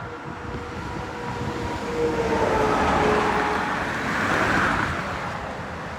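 A vehicle passing on the road: its tyre and engine noise swells to a peak around the middle and then eases off, with a faint whine that drops slightly in pitch as it goes by.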